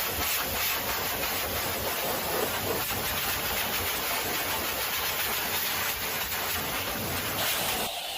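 High-pressure water spray at a car wash, a steady loud hiss over a low machine rumble, changing abruptly just before the end.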